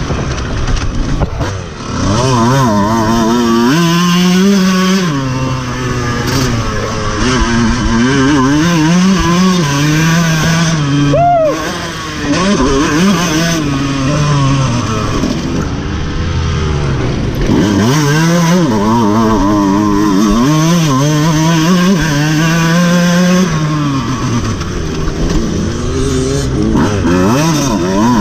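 Dirt bike engine heard from on board, revving up hard and dropping back again and again as the rider opens the throttle on the straights and backs off for the corners, with a brief dip in engine level about 2 seconds in and again around 12 seconds.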